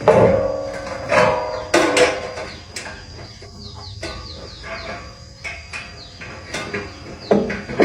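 Metal clanks and knocks of tools on metal during repair work, the loudest right at the start and others about one, two and three seconds in, with a series of high, short, falling bird chirps behind.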